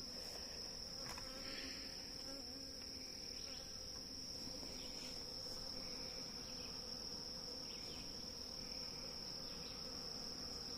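Honeybees buzzing in a low, steady hum around hives that a bear has torn open, the colony disturbed. Under it runs a constant high-pitched trill of crickets.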